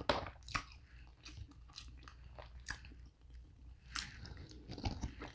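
A person chewing a mouthful of buttery seafood boil close to the microphone, with scattered wet mouth clicks and smacks.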